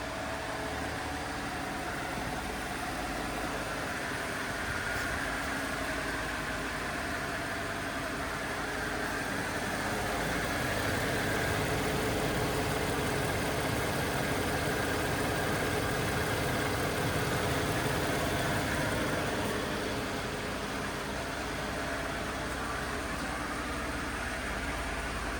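2014 Chevrolet Silverado 1500's engine idling steadily, growing somewhat louder for several seconds midway before settling back.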